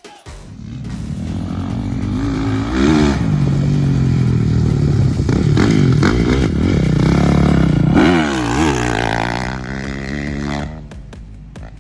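Motocross bikes on track, engines revving up and down through the gears as they ride past, with several engine notes overlapping. The engine sound drops off suddenly near the end.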